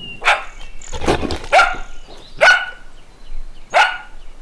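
Spotted hyenas calling: a run of short, sharp yelps, about five in four seconds, each rising quickly in pitch.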